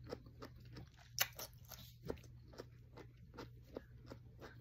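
A person chewing food close to the microphone, a steady run of about three chews a second, with one sharper crunch about a second in.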